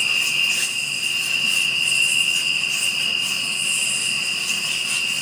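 Steady chorus of night insects, crickets trilling in one constant high note, with a fainter pulsing shrill buzz above it.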